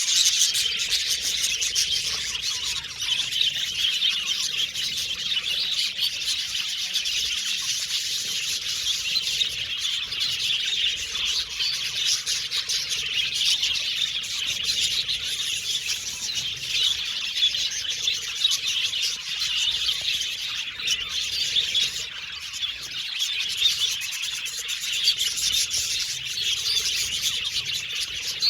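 A flock of budgerigars chirping, twittering and chattering without a break, many calls overlapping.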